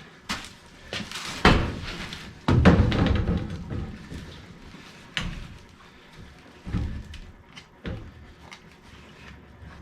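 A series of knocks and clunks from handling parts of a gas furnace being taken apart, the heaviest and longest about two and a half seconds in, then scattered lighter knocks.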